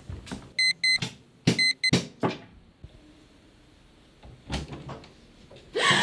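Digital alarm clock beeping in quick double beeps, two pairs about a second in, among a few sharp knocks.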